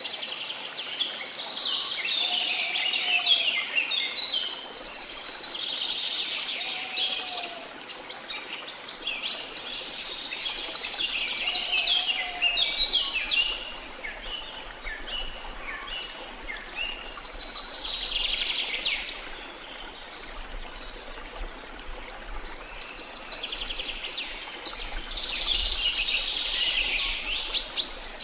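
Several birds singing in repeated bursts of fast trills and chirps, with a few low whistled notes in the first half, over a faint steady rush of falling water.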